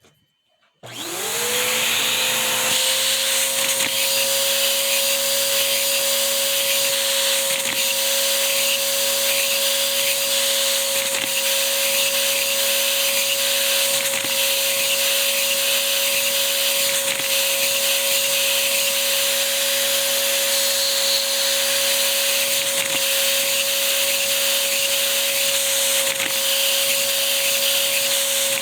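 A vacuum cleaner switches on about a second in. Its motor whine rises quickly and then holds steady over a rushing hiss of suction, as it drives a three-cylinder cam-valved Lego vacuum engine from a cold start, with light clicks of plastic parts now and then.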